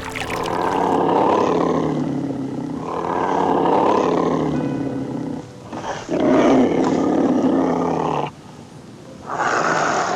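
A large animal roaring: four long, rough calls, each lasting about two seconds with short pauses between, the last one shorter.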